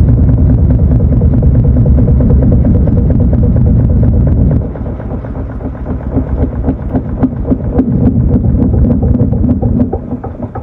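Panasonic NA-FA80H8 washing machine running: a loud, steady low rumble that drops abruptly about four and a half seconds in to a quieter churning sound with many small clicks and knocks, which fades further near the end.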